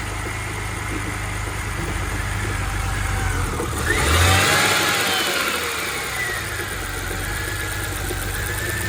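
BMW E90's newly installed engine running on its first start, briefly revved about four seconds in before settling back to idle. It is running with a slight misfire.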